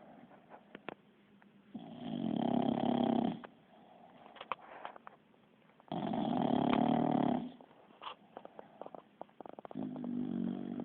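Sleeping bulldog snoring: three long, rattling snores about four seconds apart, with small clicks and snuffles between them.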